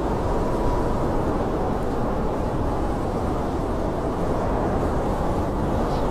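Blizzard wind: a steady low rushing with a faint whistle that slowly rises and falls in pitch.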